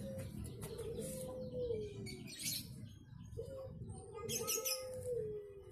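Birds calling: a low call repeated every second or two, falling in steps, with brief high chirps twice.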